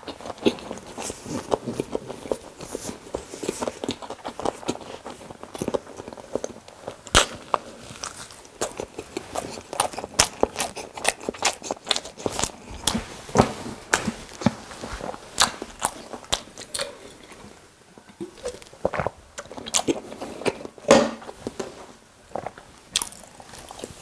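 Close-miked chewing of a mouthful of toasted sandwich: an irregular run of wet mouth clicks and smacks, some sharper and louder than others.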